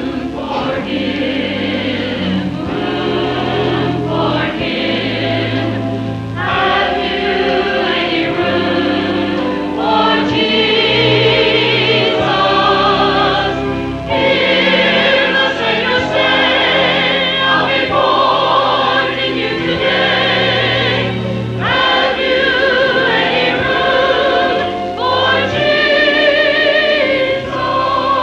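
Church choir singing with accompaniment, sung phrases with vibrato over sustained low notes.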